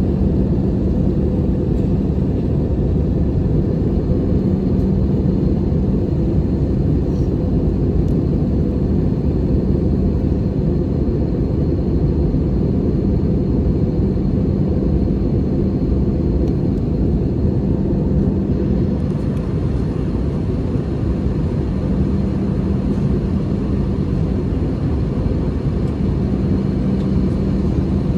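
Steady cabin noise inside an Airbus A320-214 in flight: an even, low rumble of airflow and engines, with a low hum that fades in and out.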